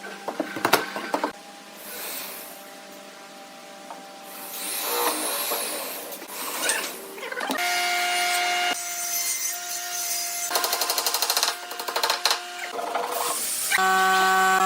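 Woodworking tools working wood: a power tool's motor runs in spells with a steady whine, between stretches of rasping and rubbing on wood. A fast run of clicks comes about ten seconds in.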